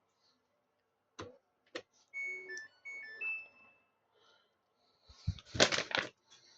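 Samsung washing machine control panel: two button clicks, then a short electronic power-on melody of high beeping notes. A louder, noisy clatter follows near the end.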